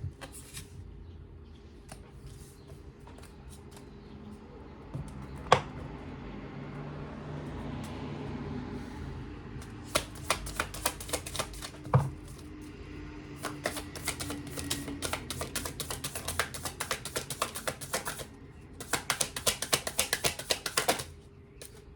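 Tarot cards being shuffled by hand: three stretches of rapid card-on-card clicking, the first starting about ten seconds in, after a single sharp tap about five seconds in.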